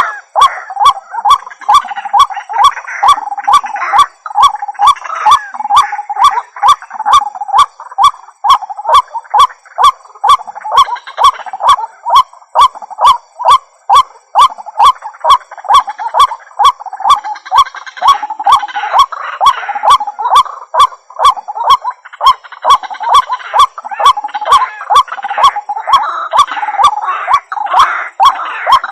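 White-breasted waterhen (ruak-ruak) calling over and over in a monotonous, even series of about two loud calls a second, with a sharp click at each beat.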